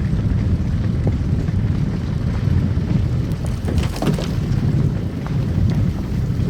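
Car driving on a snow-covered road: a steady low rumble of tyres and engine, with a brief cluster of crackling clicks about four seconds in.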